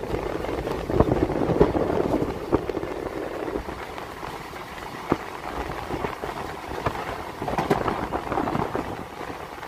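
Passenger train running, heard from an open coach doorway: a steady rushing rumble with scattered knocks and clanks from the wheels and coach.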